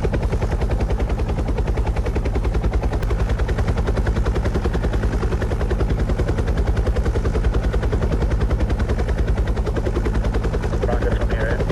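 Helicopter rotor chopping steadily in fast, even pulses over a low hum.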